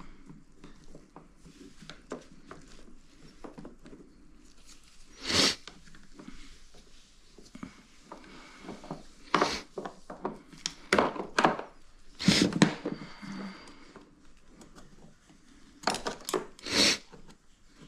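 Hand-work noises: a series of short scrapes and rubs, about seven brief loud strokes with quieter clatter and handling between them.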